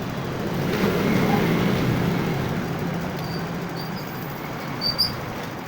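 Vehicle running, a steady drone of engine and road noise that swells about a second in and then eases, with a couple of faint clicks near the end.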